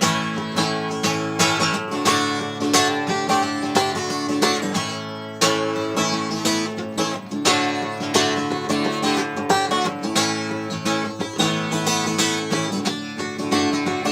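Acoustic guitar strumming chords in a steady rhythm, with no singing, and a brief pause about five seconds in.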